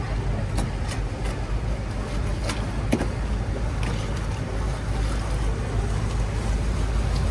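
Motorboat engine running with a steady low rumble on the canal, with a few scattered light clicks over it.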